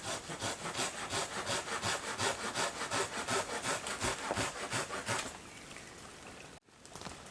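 Hand saw cutting through a small dead branch for firewood, in quick, even back-and-forth strokes that stop about five seconds in.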